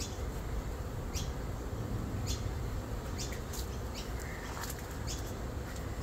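A small bird chirping repeatedly: about eight short, sharp high notes, each sweeping downward, over a steady low outdoor rumble.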